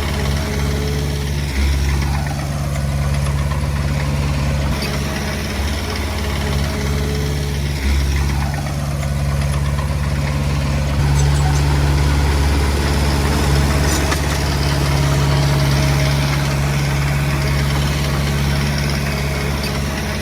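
Komatsu D20P bulldozer's diesel engine running steadily, swelling louder a few times as it takes load.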